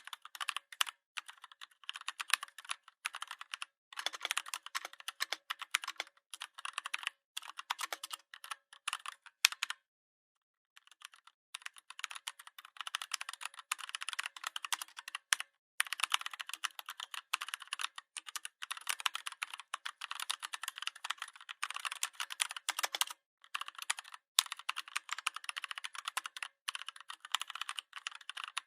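Computer keyboard typing: fast, dense runs of key clicks in bursts, broken by short pauses and one silent gap of about a second near the middle.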